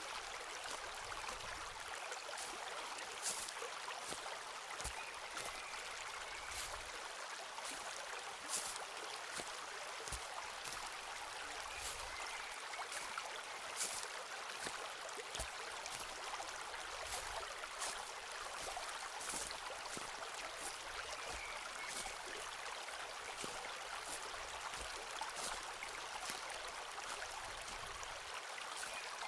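Footsteps walking slowly through a forest, with a soft thud every couple of seconds and sharp crackles of leaves and twigs underfoot, over the steady rush of a stream.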